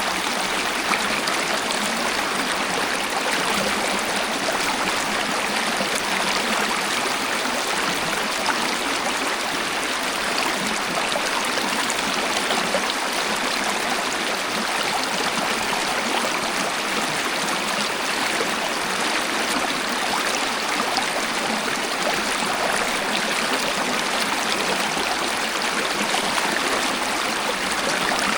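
Waterfall and flowing stream water rushing steadily, an even hiss with no breaks or changes.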